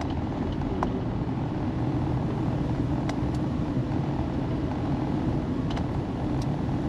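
Van driving along a road, heard from inside the cabin: a steady engine and tyre rumble, with a few small knocks and rattles along the way.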